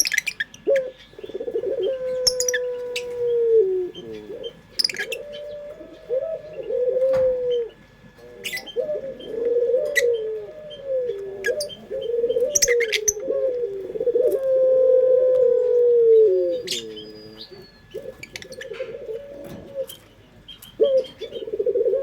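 Puter doves (domestic ringneck doves) cooing over and over, long drawn-out coos that dip in pitch at their ends, overlapping at times, with short sharp chirps or ticks scattered between them.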